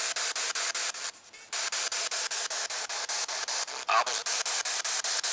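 Radio static hiss chopped into rapid, even pulses, about six or seven a second, typical of a ghost-hunting spirit box sweeping through radio stations. The hiss drops out briefly just after a second in, and a short gliding tone cuts through near the end.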